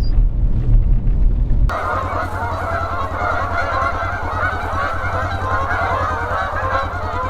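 A low rumble for under two seconds, then a large flock of Canada geese honking together: a dense, steady chatter of many overlapping calls.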